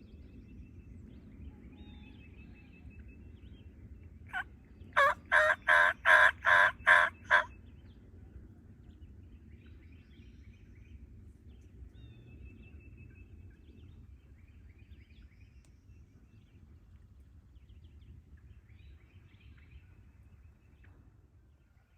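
Wild turkey yelping: one short note about four seconds in, then a run of about eight loud, evenly spaced yelps lasting a couple of seconds. Faint songbird chirps in the background.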